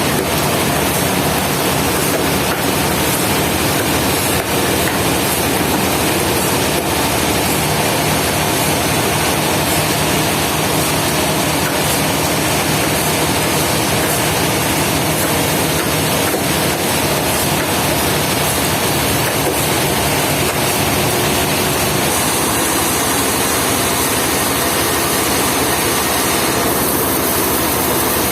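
Sawmill machinery running steadily: a heavy engine with a constant, loud, even noise that does not let up or change.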